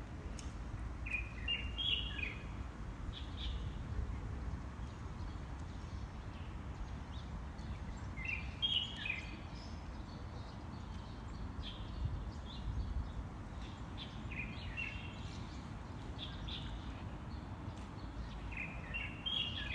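A songbird singing a short phrase of quick chirps that repeats every five or six seconds, with fainter calls between, over a low steady outdoor rumble.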